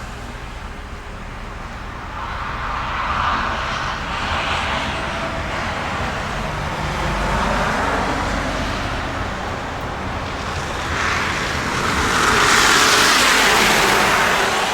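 Vehicles passing on a road: a steady rumble with tyre and engine noise that swells as one vehicle goes by a few seconds in, and swells louder as another passes near the end.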